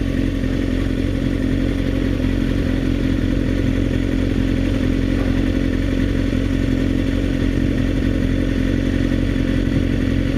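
Motorcycle engine running at a steady, unchanging pitch, heard from the rider's on-bike camera.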